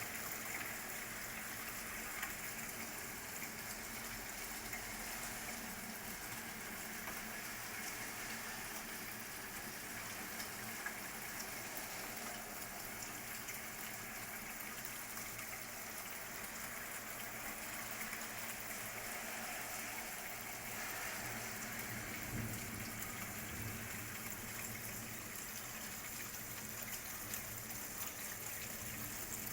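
Thunderstorm ambience: steady rain, with a low rumble of thunder about two-thirds of the way through and a few faint clicks.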